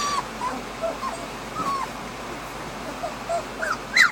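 Litter of two-and-a-half-week-old Alaskan Malamute puppies whining: a string of short, high whimpers one after another, growing louder and higher in pitch near the end.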